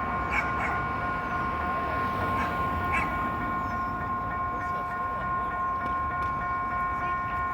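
Railroad level-crossing warning device sounding a steady, unbroken electronic alarm tone made of several pitches at once, signalling that a train is approaching.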